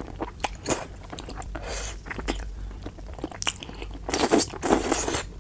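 A person biting and chewing food close to the microphone: irregular wet, crunchy bites and clicks of the mouth, with a louder burst of crunching near the end.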